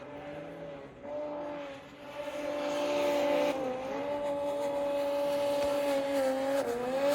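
Snowmobile engine running, getting louder about two seconds in, its pitch mostly steady but dipping briefly twice, near the middle and near the end.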